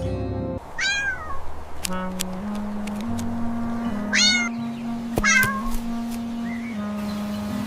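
A cat meowing three times, each call rising then falling in pitch, over soft background music with held low notes.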